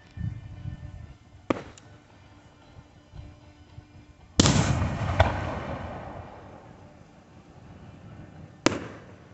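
Aerial fireworks shells bursting: a few sharp bangs, the loudest about four and a half seconds in, followed by a long rumbling echo that fades away.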